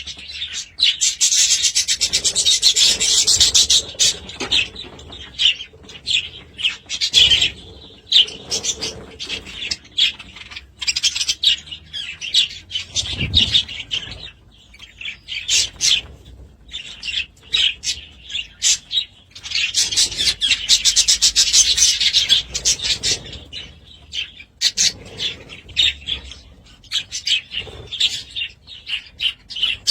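Budgerigars chirping and chattering in quick, high-pitched notes, with two denser, louder bursts of warbling chatter, about a second in and again around twenty seconds in.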